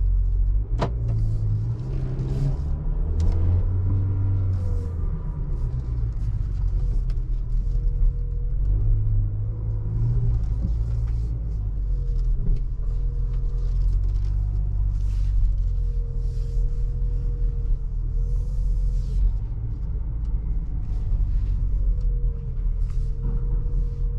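Haval H6-GT's 2.0-litre turbocharged four-cylinder engine and exhaust, heard from inside the cabin, running at low car-park speed in race mode with the revs rising and falling over a steady low rumble. A sharp click about a second in.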